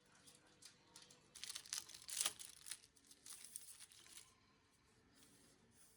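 Rustling and crinkling of something being handled, in a run of short scratchy bursts from about a second and a half in until about four seconds in, loudest near the middle.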